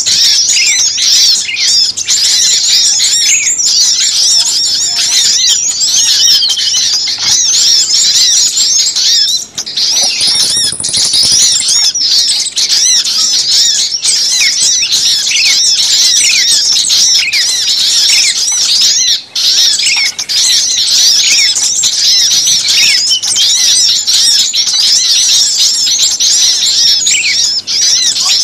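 A dense chorus of many small songbirds chirping and twittering over one another without a break, a bird-lure recording for drawing in small birds; the calls are short, high, quick notes.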